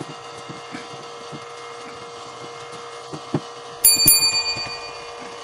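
Metal hand tool striking metal once, giving a sharp clink and a bright bell-like ring that fades over about a second, near the end. Under it run a steady hum and light tool taps.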